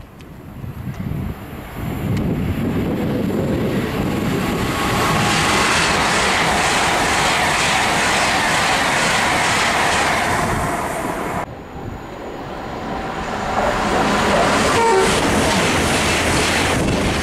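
Great Western Railway Class 800 (Hitachi IET) train passing through a station at speed, a loud rush of wheels and carriages building over a few seconds and holding for about ten. After an abrupt cut, a second train passes close by.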